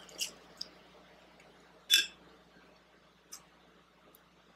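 Close-mic'd mouth sounds of a person eating a forkful of pancake: a few separate wet chewing clicks and smacks, the loudest about two seconds in.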